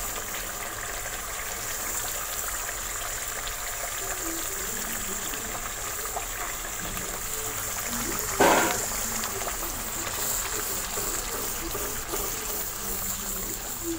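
Spiced masala sizzling and bubbling in a frying pan as yogurt is stirred into it with a wooden spatula. A brief louder noise comes a little past halfway.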